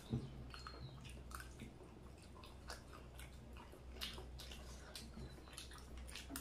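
Faint close-up chewing and wet mouth sounds of someone eating homemade chaat, with scattered small sharp clicks over a steady low hum.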